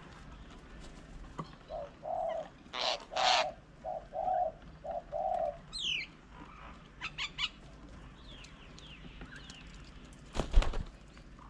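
A dove cooing: a run of about five short, low coos, mixed with a few louder rough calls. Other birds chirp around it, including a high whistle falling in pitch. A brief loud thump comes near the end.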